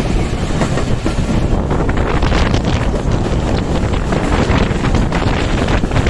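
Express train rushing past close at speed, a loud steady rumble and rattle of wheels and coaches mixed with heavy wind buffeting on the microphone.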